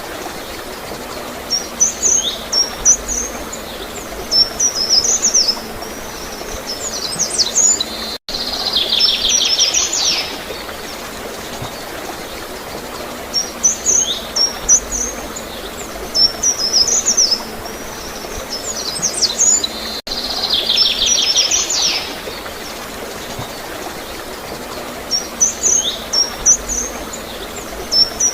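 Small songbirds chirping in short high phrases over steadily flowing, gurgling water. A fast buzzy trill comes twice, and the same stretch of birdsong repeats about every twelve seconds.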